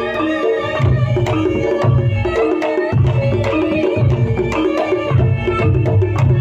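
Campursari music: sharp kendang hand-drum strokes over a stepping melodic line and regular deep bass notes.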